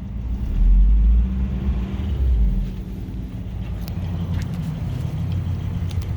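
1987 Toyota pickup truck engine idling steadily and smoothly, with a louder low rumble for a couple of seconds near the start.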